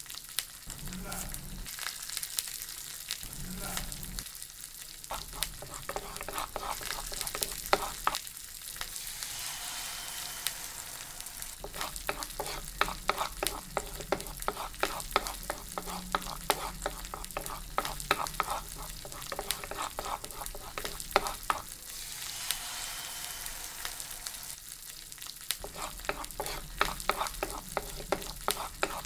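Food stir-frying in oil in a nonstick pan: a steady sizzle with a wooden spatula scraping and knocking against the pan in many quick clicks. The stirring goes in busier and quieter stretches, first through onions, green chillies and dals, then grated amla and cooked rice.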